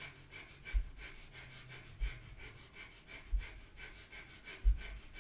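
Breath of fire: rapid, rhythmic forceful breathing through the nose, several breaths a second. A low thump comes about every second and a third.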